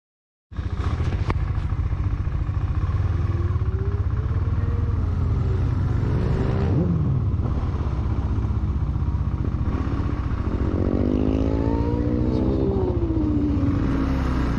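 Motorcycle running at track speed over a steady rumble of wind, starting abruptly about half a second in; the engine's pitch rises and falls several times as the revs change, most clearly from about ten to thirteen seconds in.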